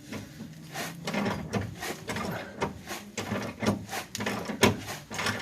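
A hammer tapping a new shock absorber's mounting eye onto its stud. The knocks come irregularly, about two or three a second, with one harder blow near the end.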